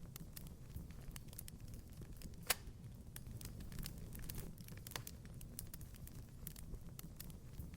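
Fireplace fire crackling: scattered sharp pops and snaps over a low steady rumble, with one louder pop about two and a half seconds in.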